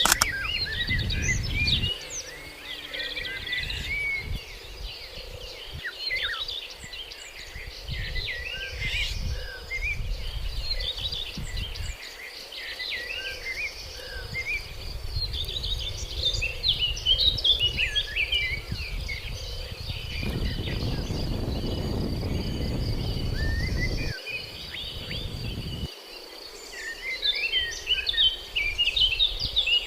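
Outdoor nature ambience: many birds chirping and calling over a steady high insect drone, with a low rumble that swells about two-thirds of the way through.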